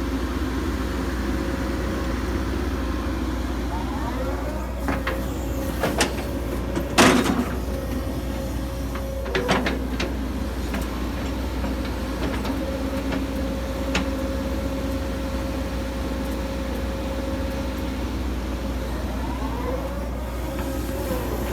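Hitachi 135US excavator running steadily, its whine dipping and rising in pitch a couple of times as the machine works, with several sharp clanks, the loudest about seven seconds in.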